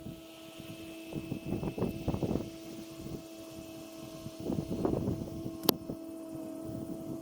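Steady drone of a distant small engine, most likely a brush cutter, running at an even pitch, with irregular low rustling over it. A single sharp crack comes about five and a half seconds in.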